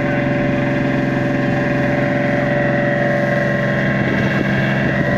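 Boat's engine running at a steady speed: an even, unbroken drone with several fixed tones.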